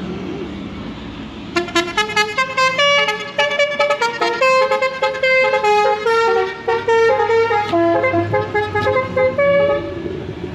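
A musical car horn plays a tune of quick, changing notes for about eight seconds, starting a second and a half in, over an engine idling.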